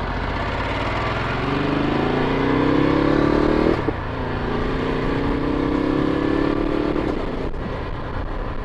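Ducati Multistrada 1260S's V-twin engine accelerating: the revs climb, drop sharply at a gear change nearly four seconds in, climb again, then level off, over steady wind and road rush.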